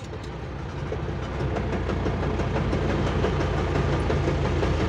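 Chevrolet D20 pickup's gearbox making a continuous mechanical noise over the running engine, growing louder about a second in. It is the sign of damaged gears: fourth and fifth broke, and a fourth-gear tooth that was rebuilt by filling has failed within a year.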